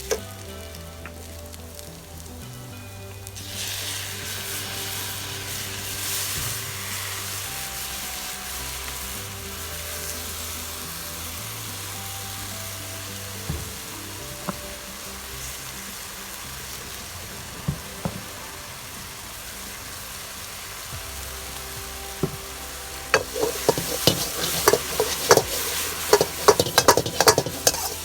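Food sizzling in hot oil in a wok, the sizzle getting louder about three and a half seconds in. From about 23 seconds, a metal utensil clacks rapidly against the wok as the stir-fry is tossed.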